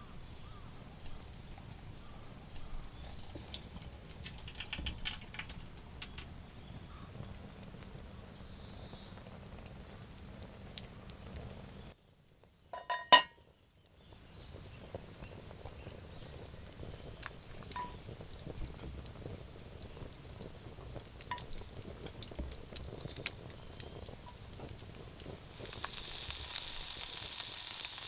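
Camp cooking over a wood fire: scattered light clicks and taps, broken about halfway by a brief near-silent gap with one sharp metallic clink, then near the end food starts sizzling steadily in a hot pan.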